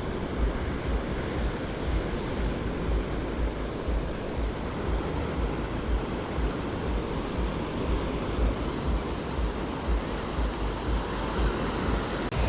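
Ocean surf washing onto a sandy beach, a steady rush of noise, with wind buffeting the microphone in a low rumble.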